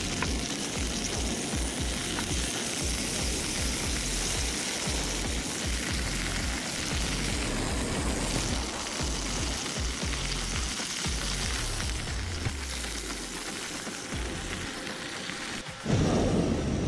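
Butter sizzling as it melts in a hot wok, a steady frying hiss. Just before the end the sound turns suddenly louder and fuller, with shrimp frying in the pan.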